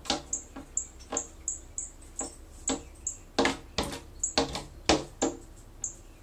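A female cardinal at the window making a series of about a dozen short, sharp clicks at irregular intervals.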